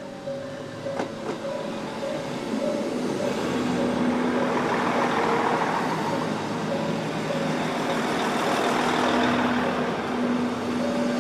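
KiHa 25 diesel railcar pulling into the station: engine and wheel noise rising to a rush as the train draws alongside, strongest about halfway through, with soft music playing underneath.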